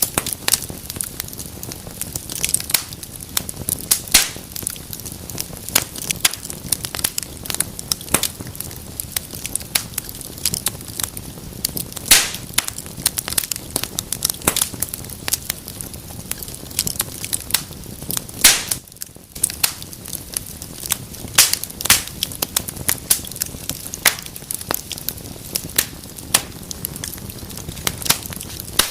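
Wood fire crackling in a fireplace: a dense, irregular run of small snaps over a soft hiss, with louder pops every few seconds and a brief lull a little past the middle.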